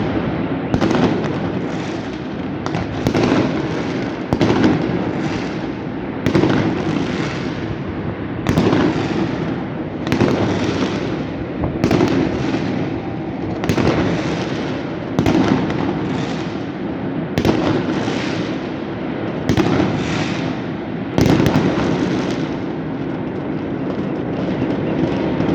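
Fireworks going off: a sharp bang every second or two, each followed by a crackling, rumbling tail, over a continuous background din of more distant bursts. The bangs thin out near the end.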